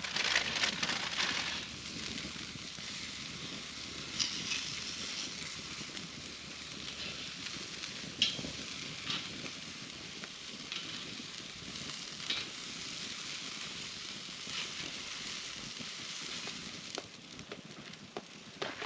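Food sizzling in a pan over a campfire: a steady hiss with a scattering of sharp pops, and a louder crackling burst at the start.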